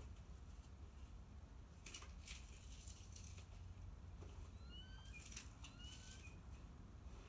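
Faint bird chirps: a few short rising chirps about five to six seconds in, with brief scratchy rustling bursts about two seconds in and again around the chirps.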